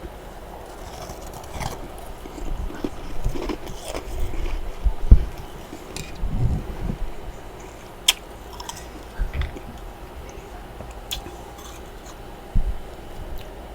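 Close-miked chewing and crunching of freezer frost in a person's mouth: irregular crunchy bites, the loudest about five seconds in, with a few sharp clicks later on.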